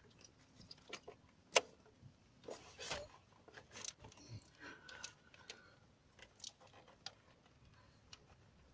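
Scattered small clicks and knocks of hands and parts being worked on in a car's engine bay, a hose being worked loose; one sharper click about one and a half seconds in.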